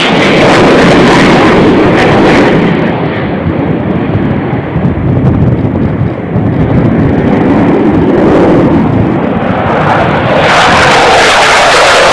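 Military jet roaring past at low level. The roar dulls to a deep rumble for several seconds, then swells back to full volume near the end.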